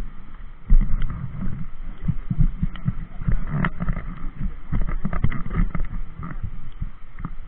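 Mountain bike riding over rough trail: a jumble of irregular knocks, clicks and rattles over a constant low rumble of wind and bumps on the microphone.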